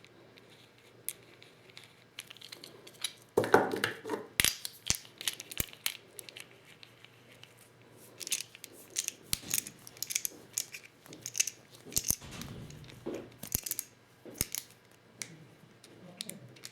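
Clicks, taps and scraping of 12-gauge shotgun shell reloading work with a Lee Loader hand set, as tools, shells and components are handled. A longer scraping rustle comes about three and a half seconds in, among many single sharp clicks.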